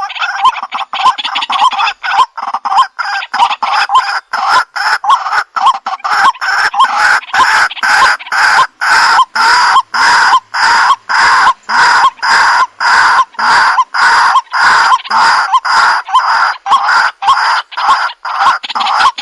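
White-breasted waterhen calling: a long, unbroken series of loud, short, repeated notes, about two to three a second.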